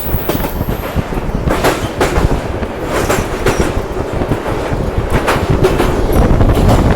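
Passenger train running, heard from on board: a steady rumble of wheels on the track, with irregular sharp clacks as the wheels cross rail joints.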